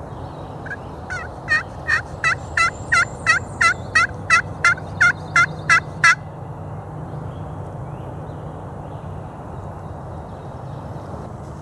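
Turkey call imitating a hen's yelp: a series of about fifteen yelps, about three a second, building in loudness over the first few notes and stopping about six seconds in. It is a locator/calling sequence aimed at a gobbler.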